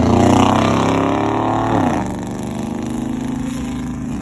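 A truck's engine running loud at high revs. Its pitch drops about two seconds in and then holds at a steadier, lower note.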